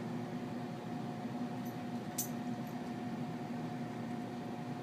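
Furnace blower running steadily in cooling mode, a steady hum with a few held tones, pushing air across the cold evaporator coil. A faint click about two seconds in.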